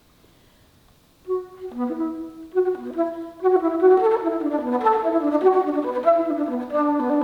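Solo alto flute playing a run of quick notes that grows busier and louder, entering after about a second of silence.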